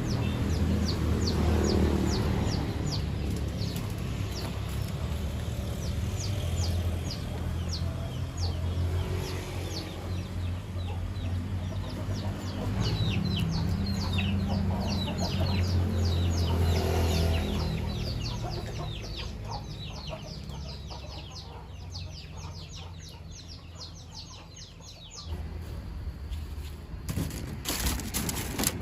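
Birds chirping in quick runs of short falling notes over a low steady hum, with a few sharp crackles near the end.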